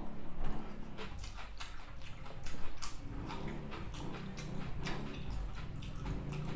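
Close-miked eating: wet chewing and lip smacks with many sharp mouth clicks, as spicy noodles and raw onion leek are eaten. A low hum from the eater joins in about halfway through.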